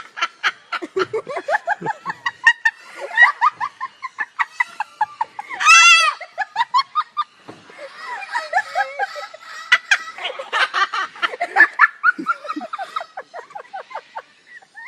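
Parrot calls and rapid, staccato cackling laughter, with one loud, shrill, wavering squawk about six seconds in.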